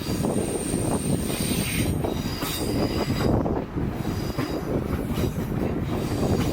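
Train moving along the platform track with steady wheel-and-rail rumble and high-pitched wheel squeal that comes and goes several times.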